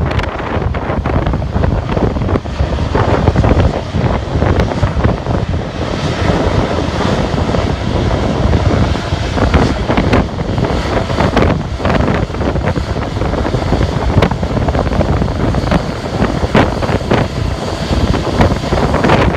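Heavy wind buffeting the microphone, over the jet engines of a large airliner moving down the runway.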